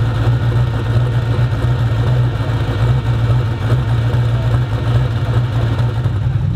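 A race car's engine idling loudly with an uneven, pulsing beat.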